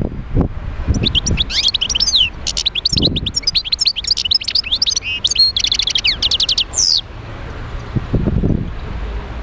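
European goldfinch singing a fast twittering song of rapid trills, chirps and sliding notes, lasting about six seconds and stopping abruptly near the end.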